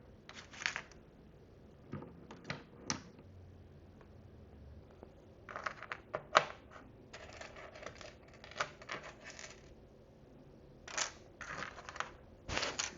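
Tiny plastic miniature food pieces and dishes being handled and set down: light clicks, taps and rustles in scattered clusters, the sharpest click about six seconds in.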